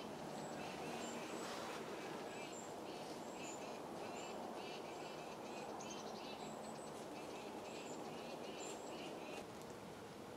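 Small birds chirping, short high calls about twice a second over a steady outdoor hiss; the chirping stops near the end.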